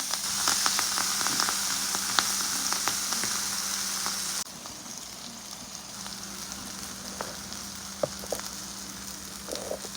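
Chicken and chopped vegetables sizzling in a hot frying pan, with scattered light clicks. About four and a half seconds in the sizzle drops abruptly to a quieter level.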